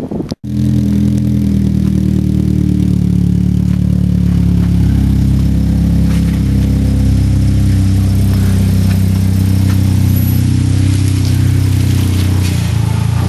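Toyota Corolla's engine running with a steady low drone, its pitch shifting slightly about four to five seconds in.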